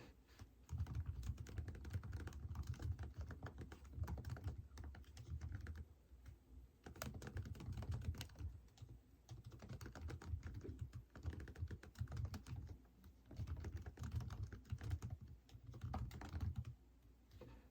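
Typing on a computer keyboard in rapid runs of key clicks, broken by short pauses every few seconds.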